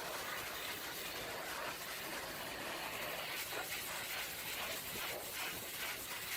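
Pressure washer spraying water, a steady hiss that wavers a little in strength.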